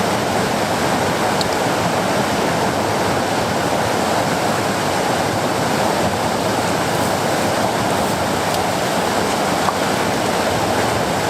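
River rapids rushing steadily, an even wash of white-water noise.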